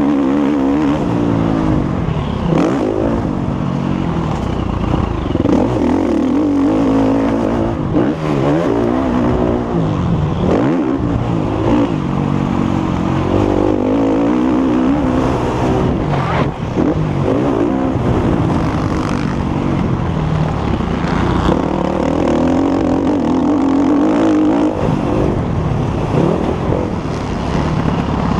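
Motocross motorcycle engine revving hard and continuously, its pitch repeatedly rising and falling as the rider accelerates, shifts and backs off around the track.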